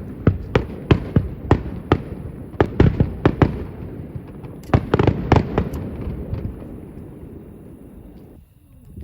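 Aerial fireworks bursting at a distance: a rapid series of sharp bangs, each trailing off in a rumbling echo, with the last cluster about five seconds in and the rumble then fading away. Near the end the sound drops off abruptly.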